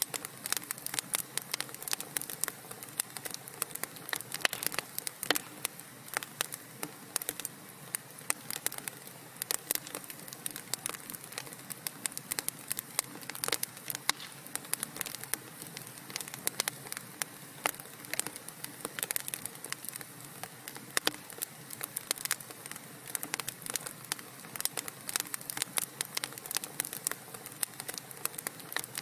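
Wood fire burning in a fireplace: a steady hiss of flames with dense, irregular crackles and pops from the burning logs.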